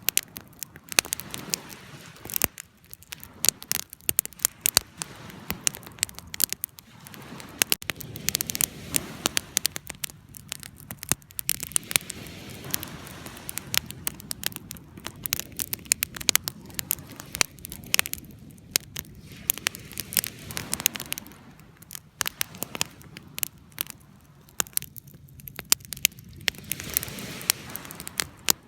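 Wood fire burning, with frequent sharp, irregular crackles and pops over a low steady rush of flames.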